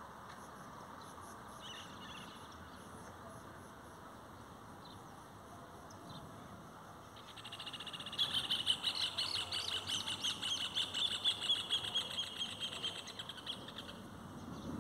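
A bird sings one long, rapid trill of quickly repeated high notes, starting about seven seconds in and lasting about seven seconds. Before it there are only a few faint chirps over a soft background hiss.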